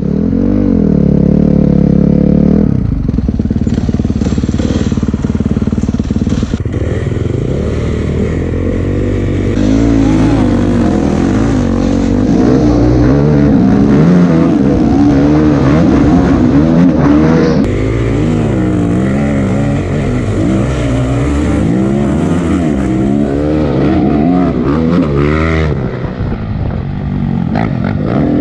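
Honda CRF250 dirt bike's four-stroke single-cylinder engine being ridden hard. It holds a steady pitch for the first couple of seconds, then revs rise and fall over and over with the throttle and gear changes.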